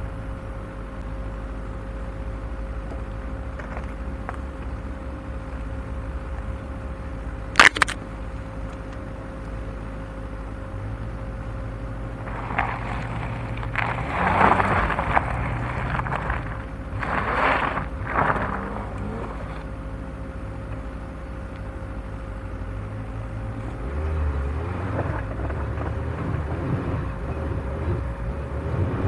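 Off-road vehicle's engine running low and steady as it crawls along an overgrown trail, with one sharp knock about eight seconds in. In the middle stretch branches scrape and rustle along the body in several passes. Near the end the engine picks up.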